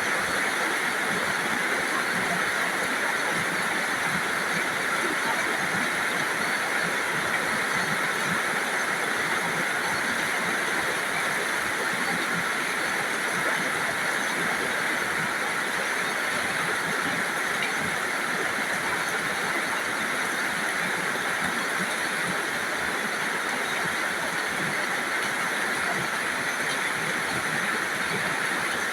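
Rain falling steadily as an even, unbroken hiss, with no separate drops or thunder standing out.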